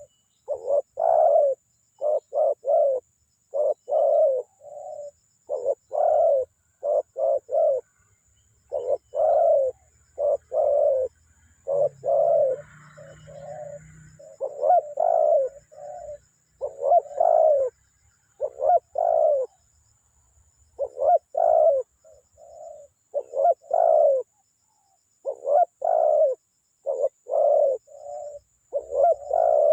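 Spotted dove (tekukur) cooing over and over in phrases of several low, mellow notes, each phrase separated by a short pause.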